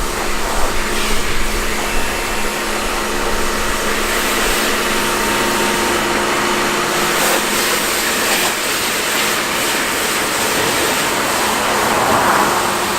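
Water spraying steadily onto a car's bodywork as it is rinsed down, with a steady low hum underneath.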